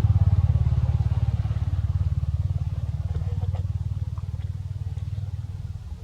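A small engine running with a fast, even throb, slowly getting quieter.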